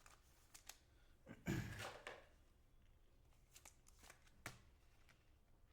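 Trading cards being handled: a faint rustle and slide of card stock, with one louder swish about a second and a half in and a few light clicks.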